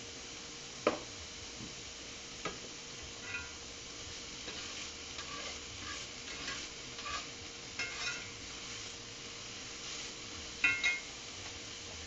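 Broccoli sizzling in a pan while being stirred, with scattered clicks and taps of the utensil against the pan; one clink about a second in and the loudest near the end.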